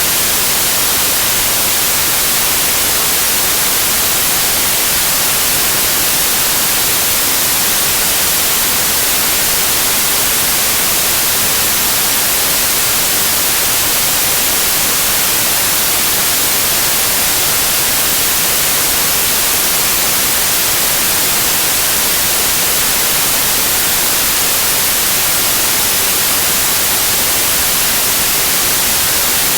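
Steady white noise like TV static, an even hiss heaviest in the treble that does not change.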